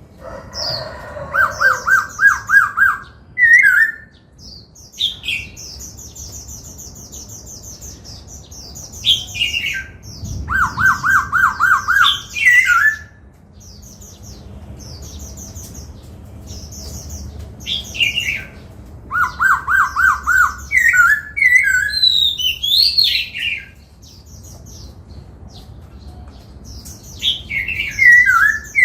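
Black-throated laughingthrush singing in four loud bursts of varied phrases: fast runs of rising-and-falling notes, high thin trills and downward-sliding whistles, with pauses between.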